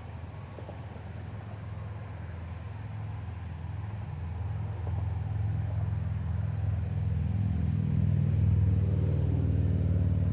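Low, steady engine hum, growing louder over the second half as it comes nearer.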